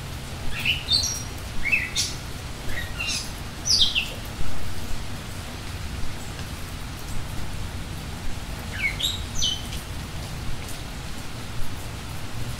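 Small birds chirping in short quick notes: a run of chirps in the first few seconds and another brief one around nine seconds in, over steady low background noise.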